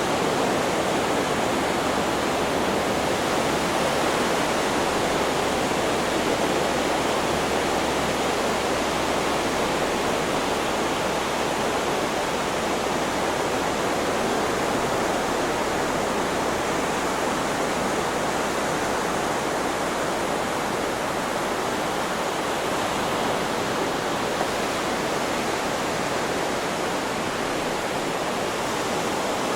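Steady, unbroken rushing hiss of a white-noise sleep track, even in level throughout with no rise and fall of breaking waves.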